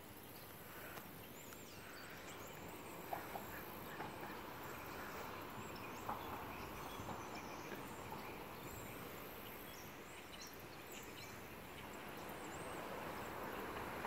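Faint outdoor ambience of birds calling: scattered short chirps and calls over a steady background hiss, with a couple of clearer calls about three and six seconds in.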